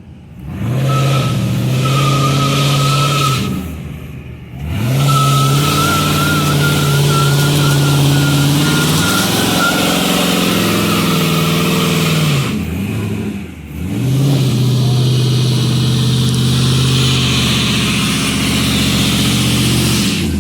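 Car doing a burnout: the engine is revved hard and held at high revs in three long pulls while the spinning tyres squeal and hiss. The engine drops off briefly about four seconds in and again about thirteen seconds in.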